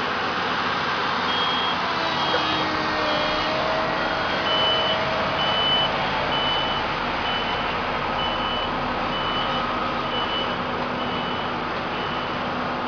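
Reversing alarm on heavy construction machinery, beeping a high tone about once a second over steady engine and site noise; a second, slightly higher beeper sounds in the first few seconds.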